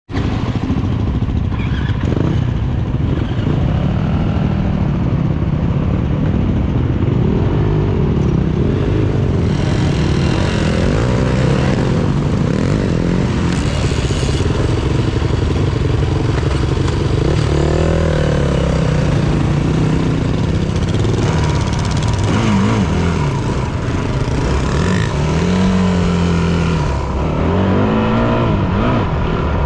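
Yamaha WR250F's single-cylinder four-stroke engine running on the move, its pitch rising and falling again and again as the throttle opens and closes, over a steady rushing noise.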